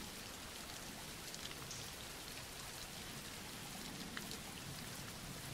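Steady rain falling, a soft even patter with scattered faint drop ticks.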